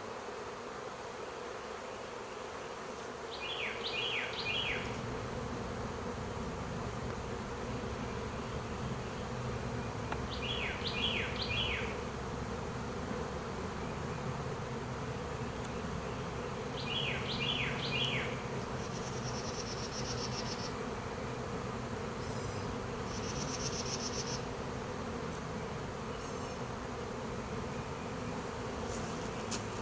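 A large honey bee swarm buzzing: a steady, dense hum of many bees flying at once.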